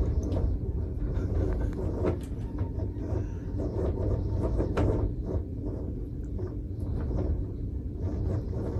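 Strong storm wind gusting against the microphone: a steady low rumble with a few sharp clicks and knocks.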